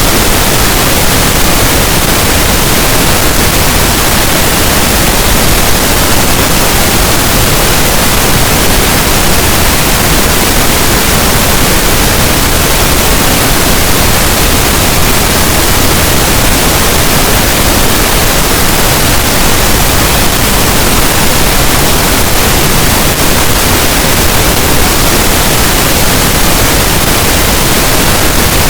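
Pink noise: a steady, loud, even hiss spread across the whole range from deep rumble to high hiss, unchanging throughout.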